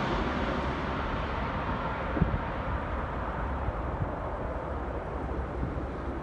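Arriving jet airliner passing on landing, its engine rumble slowly fading away as it moves off, the high hiss dying out first.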